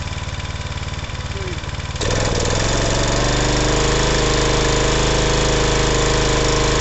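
Briggs & Stratton Ready Start pressure washer running steadily. About two seconds in, the sound jumps louder and fuller and then holds steady.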